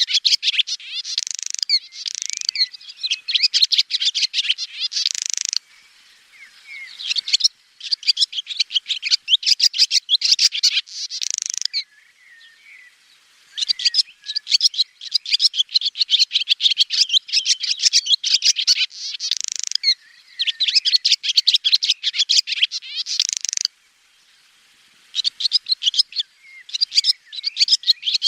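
Swallow singing a rapid, high twittering song in phrases several seconds long, with short pauses between them.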